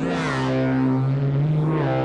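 Massive software synthesizer holding a low, buzzy droning note, its tone swept brighter and darker by the hand-controlled parameters, with a sweep near the start and another near the end.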